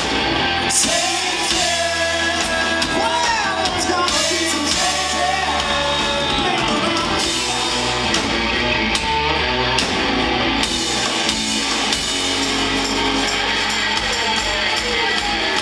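Rock band playing live, with sung vocals over electric guitars, bass and drums; the singing is clearest in the first half.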